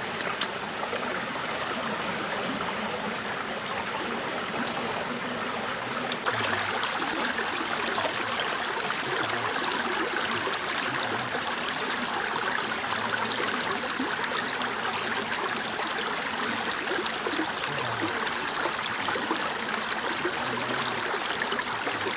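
Stream water flowing and trickling over rocks, a steady rush. A sharp click comes about six seconds in, and the water is a little louder after it.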